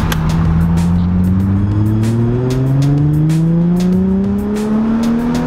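Nissan 350Z's 3.5-litre V6 pulling steadily through a gear, its engine note rising evenly in pitch as it speeds up, heard from inside the cabin. Background music with a steady beat plays over it.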